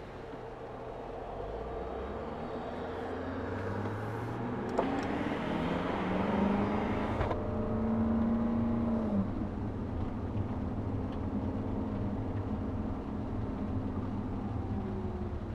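2013 Audi RS5's 4.2-litre V8 through a Capristo exhaust, pulling up in pitch as it accelerates for a few seconds, then holding a strong steady note that drops away about nine seconds in.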